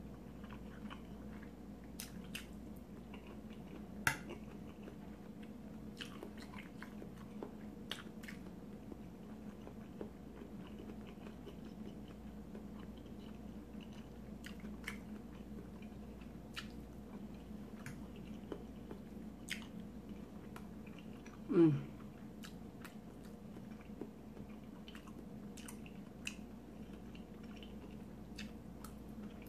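Close-up chewing and mouth sounds of a person eating pasta salad, smoked sausage and onions, with scattered light clicks of a fork against the plate over a steady low hum. About two-thirds of the way through comes one short, louder sound that falls in pitch.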